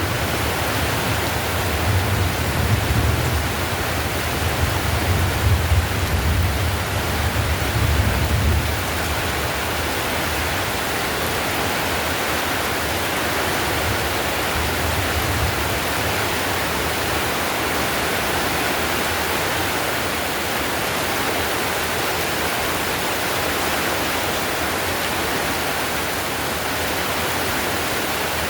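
Heavy rain falling steadily on clay roof tiles, an even hiss. A low thunder rumble dies away about nine seconds in.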